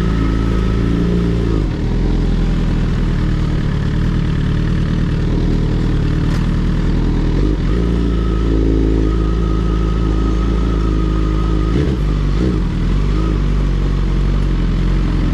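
Sport motorcycle engine running steadily on the move, its pitch easing briefly a couple of times.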